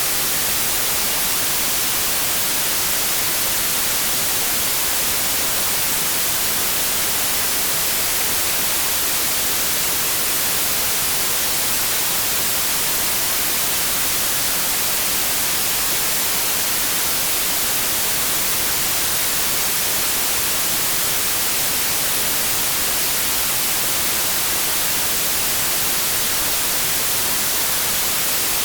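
Synthetic white noise: a steady, even static hiss with no change in level, brightest in the high frequencies.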